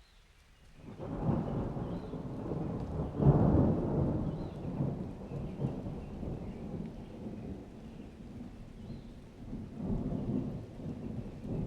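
Thunder rolling in a rainstorm: a low rumble builds about a second in, is loudest a few seconds in, then fades and swells again near the end, with rain hissing under it.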